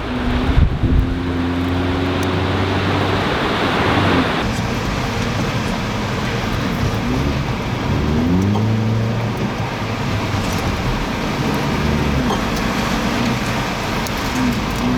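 A car driving, its engine pitch rising and falling several times as it speeds up and slows, over steady road and wind noise that is heavier in the first few seconds.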